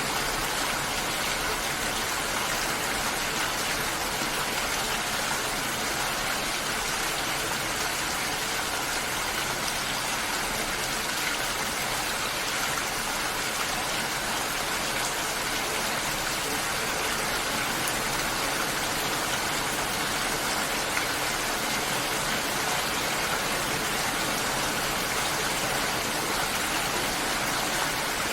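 Steady, unbroken rush of water, an even hiss with no separate drops, splashes or other events standing out.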